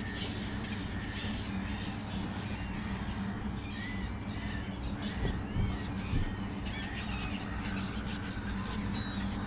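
A large flock of birds calling in flight, many short overlapping calls at once, over a steady low hum.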